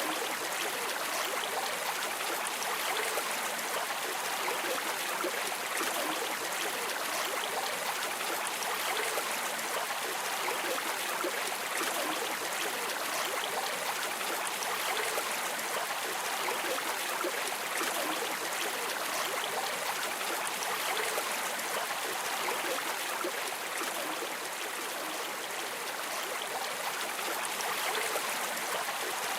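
River water streaming and trickling steadily, an even rushing hiss with fine splashy flicker.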